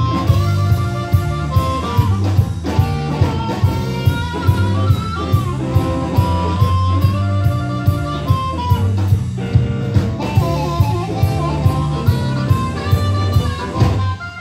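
Live band playing a blues number with guitar and drum kit on a steady beat; the music stops sharply near the end.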